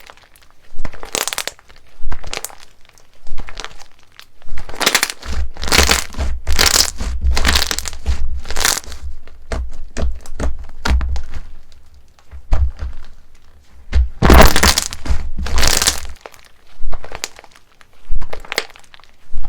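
Slime being pressed and squeezed by hand, giving repeated short crackling crunches about once a second, with low thuds of the slime being pushed down through the middle part.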